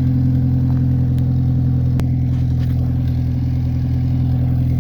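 Ford Ranger's engine idling steadily at the exhaust while it warms up after a cold start in sub-freezing cold, with a single sharp click about two seconds in.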